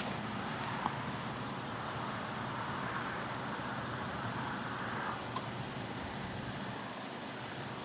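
A steady rushing of wind over the microphone, with a couple of faint distant firework pops about a second in and past the halfway mark.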